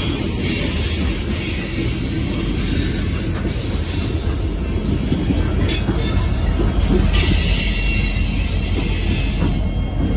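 Loaded coal train passing close by: steady, loud rumble of steel wheels on rail, with wheel squeal and hiss that come and go. Near the end, diesel locomotives placed in the train go by running.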